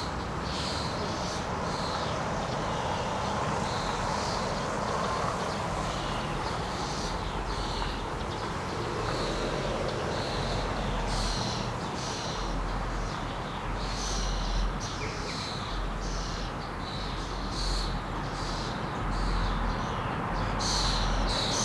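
Thrushes calling: many short, sharp, high calls repeated throughout, over steady low background noise.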